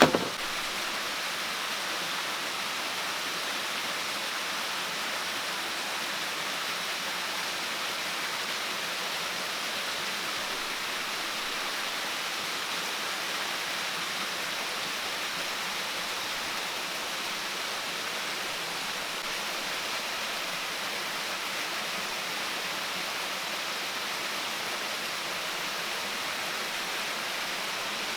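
Steady, even rushing of water in the forest, an unbroken hiss. A brief knock right at the start.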